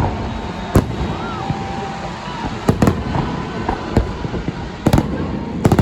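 Fireworks salute going off: sharp bangs at irregular intervals, about seven in all, some coming in quick pairs, over a steady background rumble.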